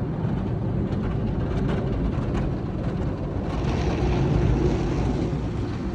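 Steady low rumble of an automatic car wash's machinery, heard from inside the car, with a rushing hiss joining about three and a half seconds in.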